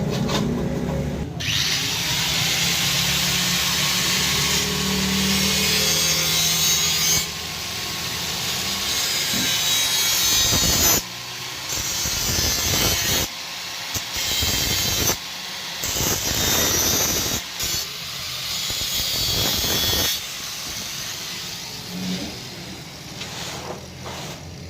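A metalworking tool abrading or cutting stainless steel: a long rasping noise with several short breaks, dropping off in the last few seconds.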